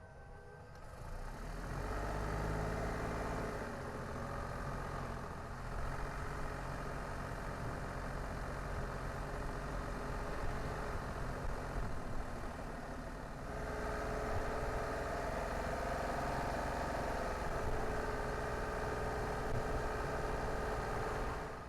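A car being driven, with steady engine and road noise. The sound grows markedly louder about two seconds in, as the car gets under way.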